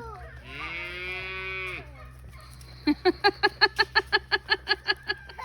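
Farm animals calling at feeding time: one long held call, then about a second later a fast, even run of about fifteen short calls, roughly six a second.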